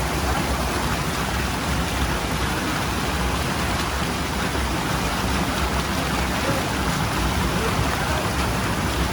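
Waterfall's rushing water, a steady, even roar with no breaks.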